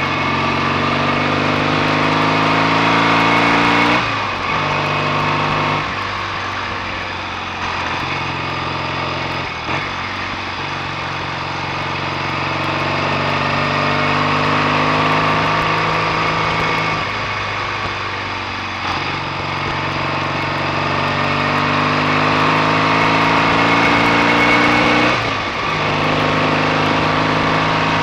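BSA A65 650 parallel-twin engine pulling the bike along, its revs climbing steadily and then dropping sharply at gear changes, about four seconds in and again near the end.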